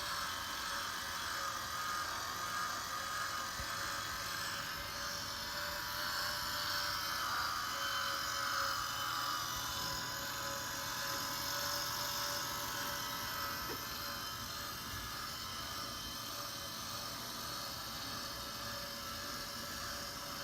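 A small electric motor whirring steadily with a constant thin whine.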